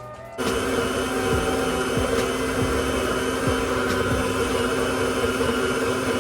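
Countertop blender switching on about half a second in and running steadily at full speed, blending a fruit smoothie.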